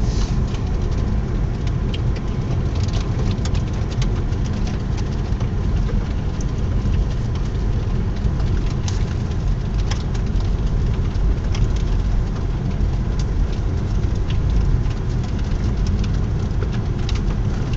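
Vehicle driving up a snow-covered mountain road, heard from inside the cabin: a steady low rumble of engine and tyres, with scattered light clicks and ticks throughout.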